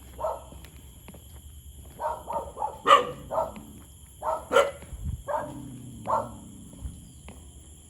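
A dog barking: short single barks and quick runs of three or four barks, the loudest about three seconds in and again just after four and a half seconds.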